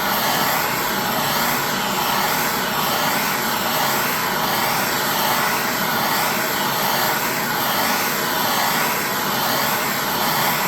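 Propane torch burning with a steady hiss that wavers gently about once a second, heating a dented aluminium motorcycle rim so it can be straightened.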